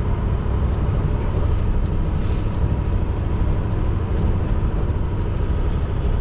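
Scania R620's 16-litre V8 diesel running steadily under way, heard from inside the cab over road noise.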